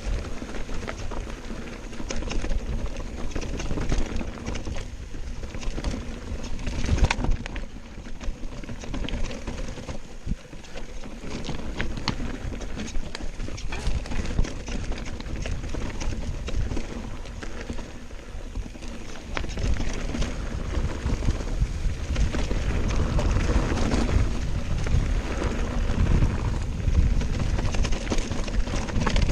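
Mountain bike descending a rough trail: tyres crunching over stones and the bike rattling with constant small knocks, with a heavier low rumble from about two-thirds through.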